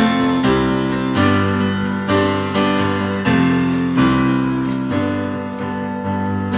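Piano or stage keyboard playing a song intro of struck chords, a new chord about every second, each ringing and fading before the next.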